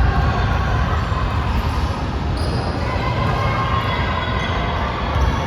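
Basketball game sounds: a ball bouncing on the court, with players' voices mixed into the steady noise of the gym.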